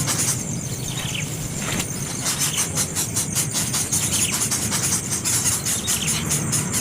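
Baby bird chirping repeatedly in short, falling calls over a steady high hiss.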